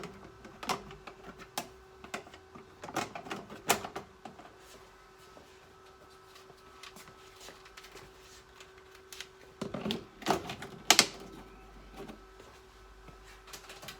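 Thetford caravan fridge ventilator fan running with a steady faint hum, under scattered clicks and knocks of handling, in two clusters, around the start and about ten seconds in.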